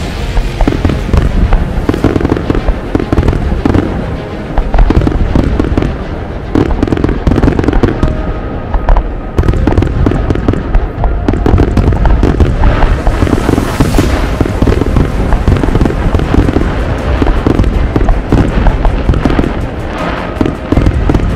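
Fireworks display going off in a continuous barrage: dense bangs and crackling with heavy low booms, barely pausing.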